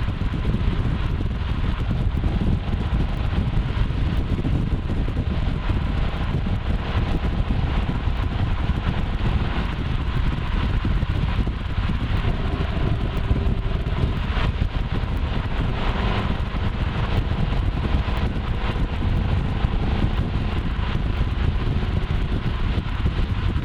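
Ford Mustang Shelby GT500's V8 running steadily under way, a dense low rumble mixed with road and wind noise. Two brief sharp sounds stand out about two-thirds of the way through.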